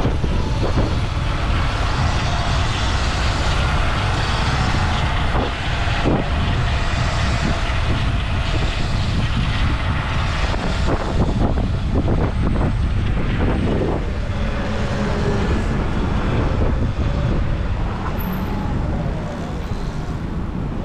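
City traffic noise with steady wind rumble on the microphone, heard from a moving Sur-Ron electric dirt bike.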